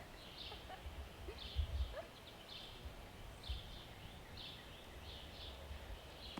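Outdoor ambience: a short high chirp repeating about once or twice a second, with intermittent low rumbles.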